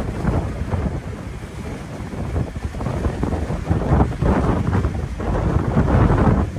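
Strong storm wind gusting and buffeting the microphone, a rough low rumble that grows stronger about four seconds in.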